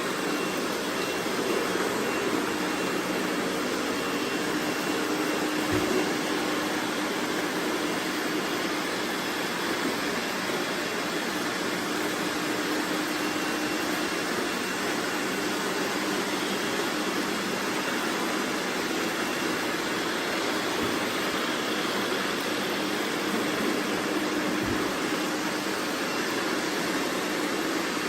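Robot vacuums running together: a steady whirring hiss of suction fans and brushes with a faint hum, and three faint knocks.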